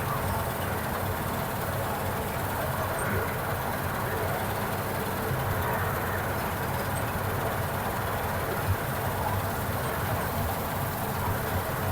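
Combine harvester running steadily at work in wheat, a continuous mechanical drone with a low hum.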